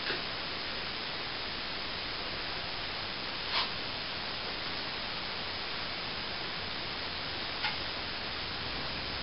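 Steady, even hiss with three brief faint clicks spread across it.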